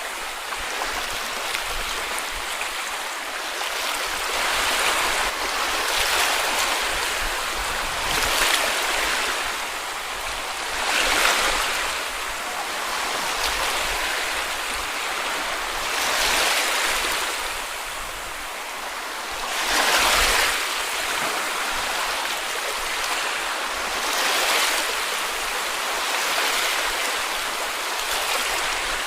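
Sea waves washing onto a beach, a steady hiss of surf that swells and falls back every few seconds.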